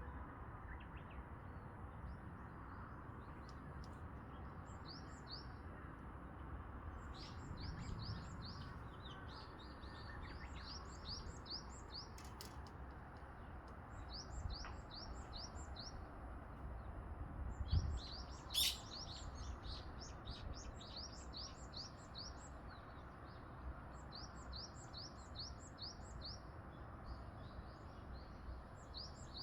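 A small songbird singing phrases of rapid, high, downslurred chirps, a phrase every two seconds or so, over a steady low background rumble. A single sharp click about two-thirds of the way in.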